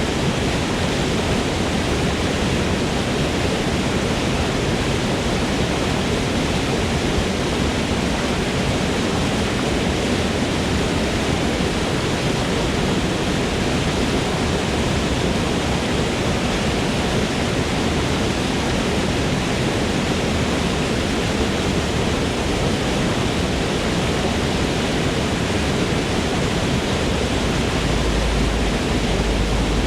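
Waterfall in a forest: a steady, dense rush of falling water with no breaks.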